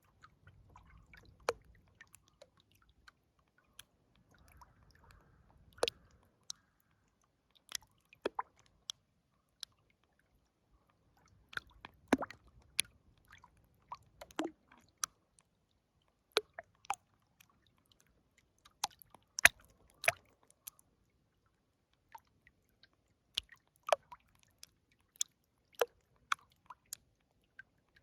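River water lapping and dripping: irregular sharp little plops and ticks, sometimes in quick clusters, with no steady rush of water between them.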